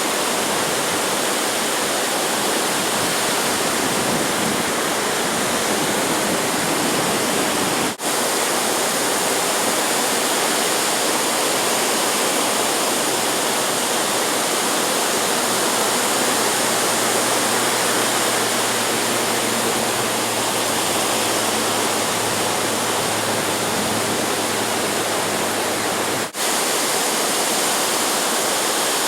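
Steady roar of ocean surf and wind on the microphone, dipping for a split second twice, about 8 and 26 seconds in.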